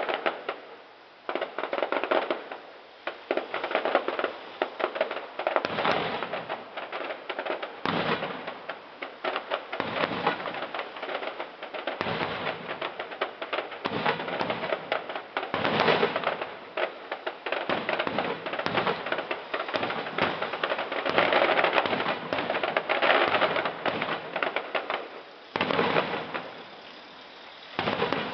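Aerial fireworks bursting one after another in a dense crackle of sharp bangs and pops. The barrage starts suddenly and eases off briefly near the end.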